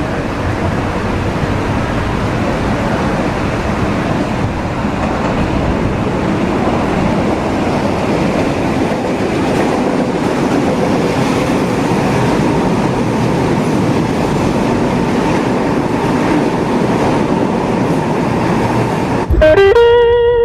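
Commuter train running on the rails, a steady rolling rumble. Just before the end it is cut off by a sudden loud, steady pitched tone.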